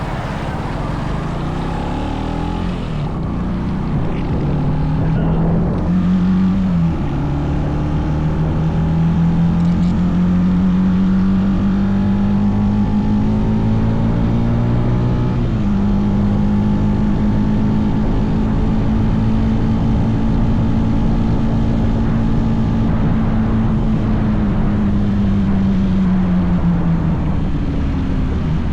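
Mini bike's small engine running under way: it climbs in pitch, drops sharply about seven seconds in as it changes gear, holds a steady drone, steps up again midway and eases off near the end. A low rush of wind and road noise runs underneath.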